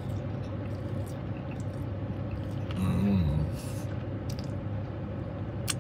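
A man chewing a mouthful of food, with scattered wet mouth clicks and smacks and a short hummed "mmm" about three seconds in, over a steady low hum.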